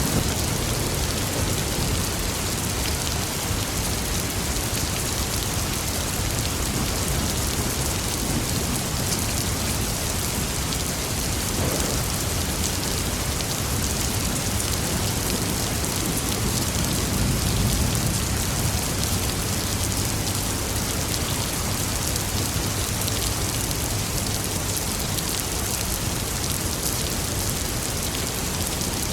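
Steady heavy rain falling in a thunderstorm, with a low rumble of thunder swelling about two-thirds of the way through.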